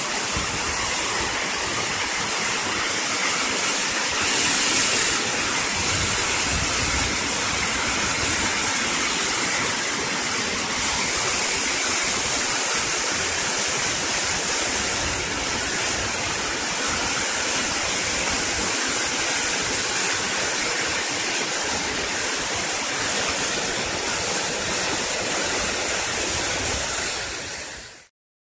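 Steady rush of a waterfall, a constant even roar of falling water that fades out just before the end.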